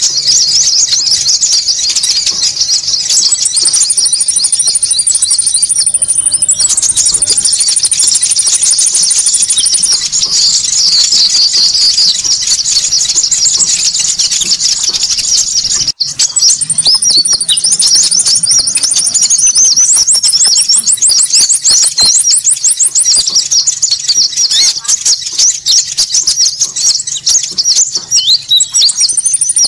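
Bird-lure (pikat) recording of konin birds: a dense, unbroken chorus of high-pitched small-bird chattering and chirping calls. It drops out for an instant about halfway through, then carries on with a fast trill of rapidly repeated notes soon after.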